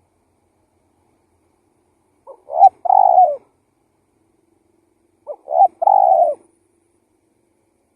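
Spotted dove cooing: two calls about three seconds apart, each a couple of short notes followed by a longer coo.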